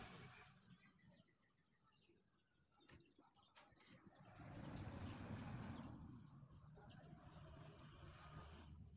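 Faint birds chirping repeatedly in the background over near-silent room tone, with a soft swell of noise around the middle.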